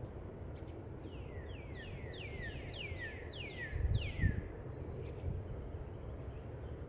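A songbird singing a run of about nine quick falling notes. Under it is a steady low rumble of outdoor noise, which swells briefly about four seconds in.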